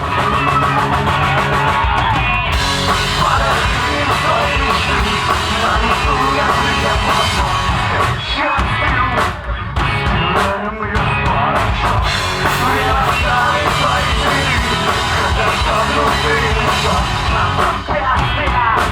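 A rock band playing loud, live and continuous, with a drum kit.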